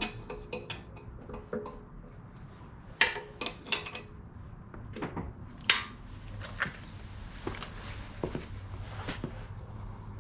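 Irregular metallic clinks and clanks of steel parts and tools being handled and knocked together, a few ringing briefly, over a steady low hum.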